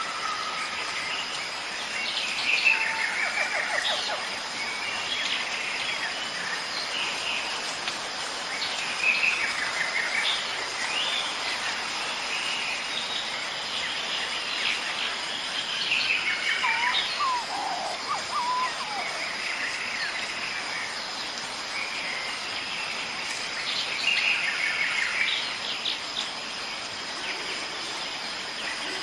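Wild birds calling and chirping in short bursts over a steady background hiss of outdoor ambience, with a lower run of notes about two-thirds of the way through.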